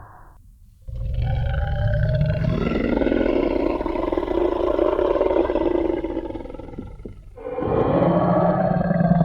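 Designed Tyrannosaurus rex roar sound effect: one long, low roar starting about a second in and lasting about six seconds, then a second roar starting near the end.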